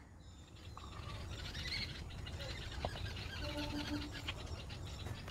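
Faint outdoor ambience with birds chirping in the distance, and a short low tone pulsed three times about three and a half seconds in.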